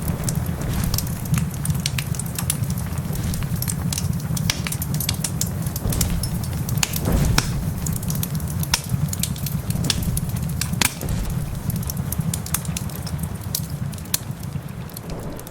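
Crackling wood fire with frequent sharp pops and snaps, one louder pop about seven seconds in, over a steady low rumble.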